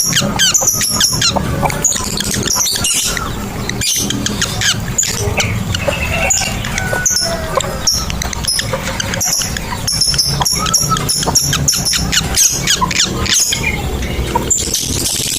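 Lovebirds chattering: a dense, rapid run of sharp high-pitched chirps and squeaks from several birds, over a steady low hum.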